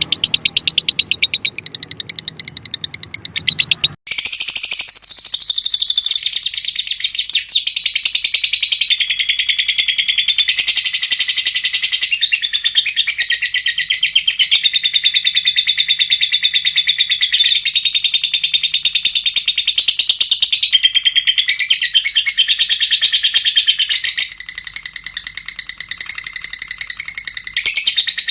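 Lovebird singing a long, unbroken chattering song of rapid high chirps and trills, the non-stop 'konslet' song. For the first four seconds there is a different, lower, rapidly pulsing call, which changes abruptly to the song.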